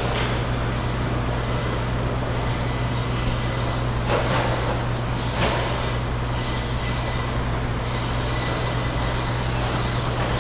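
Radio-controlled electric stadium trucks racing on a dirt track: motors whining and tyres on dirt, with a few brief louder passes about four and five and a half seconds in, over a steady low hum.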